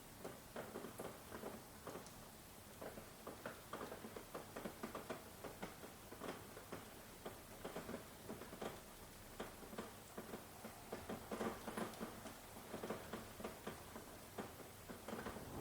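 Rain falling, heard as many separate drops pattering irregularly and close together.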